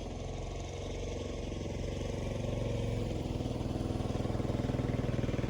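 Motorcycle engine running steadily close by, with an even firing pulse. It cuts in abruptly and grows slightly louder.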